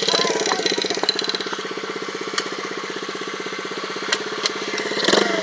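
Small 110cc dirt bike engine idling with a steady, rapid putter.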